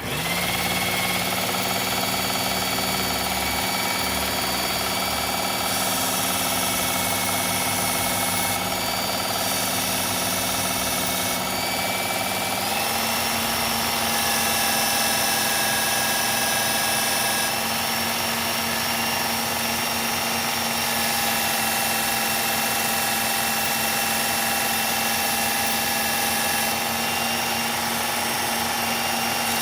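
Electric belt knife sharpener with a medium-grit belt, its motor running steadily with a steady whine while a knife blade is ground on the belt. The whine shifts slightly in pitch about twelve seconds in.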